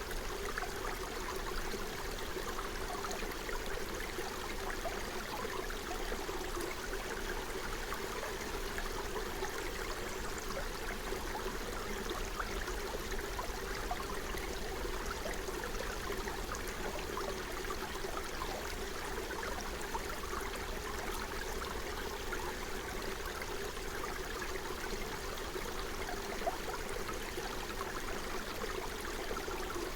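Forest stream flowing steadily: a continuous, even rush of running water.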